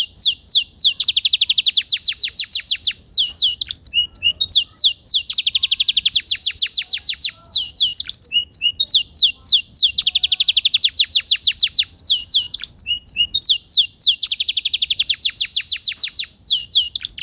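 Canary singing: runs of quick downward-sweeping whistled notes alternating with rapid rolling trills that last a second or two, the pattern repeating about four times.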